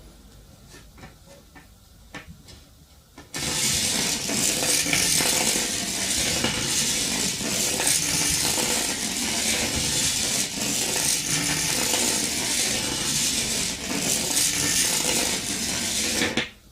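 Battery-and-magnet train running along inside a coil of bare copper wire, a dense metallic rattling scrape that starts abruptly about three seconds in and cuts off just before the end. A few light clicks come before it.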